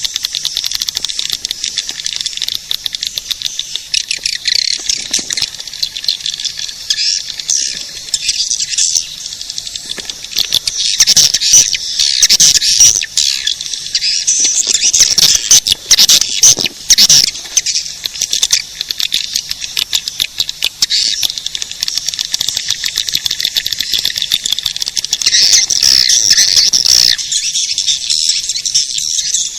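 Swiftlet lure call: a dense, unbroken chatter of high, rapid chirps and twitters from edible-nest swiftlets, the recorded call played to draw swiftlets into a nesting house. It has a thin, high sound with no low end.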